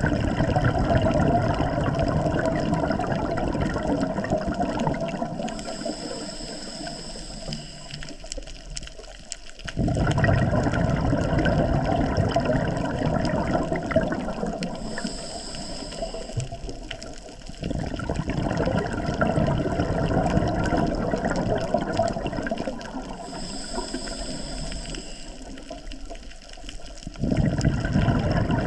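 Scuba diver's exhaled bubbles gurgling out of the regulator underwater in long rushes, about one breath every eight or nine seconds. Between the rushes there is a short, higher steady hiss.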